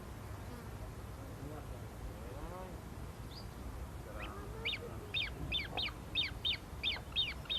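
A bird calling a quick series of short, falling notes, about three a second, starting about halfway through, over a steady low rumble.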